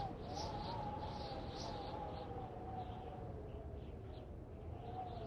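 Faint bird chirps, short and repeated about twice a second, over a steady, slightly wavering tone.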